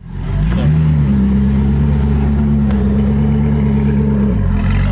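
Koenigsegg hypercar engine running at a raised idle. Its pitch climbs about half a second in, holds steady, then dips briefly near the end.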